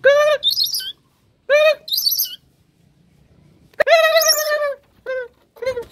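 A bird calling: a series of short, arched, nasal calls, with quick higher chirps after the first two, one longer call about four seconds in, and a few quick short calls near the end.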